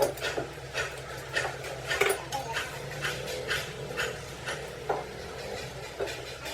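Light metallic clinks and taps, about three a second, like metal tools working on metal, over a steady low hum.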